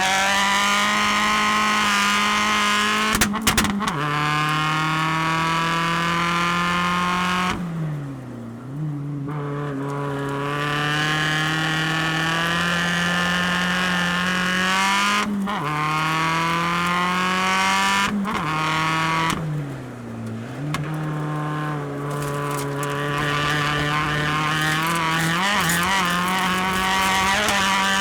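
Mini Countryman ALL4 rallycross supercar's engine and exhaust, heard onboard while driven hard. The revs climb again and again with quick upshifts, and drop away and pick up again twice, about eight and twenty seconds in.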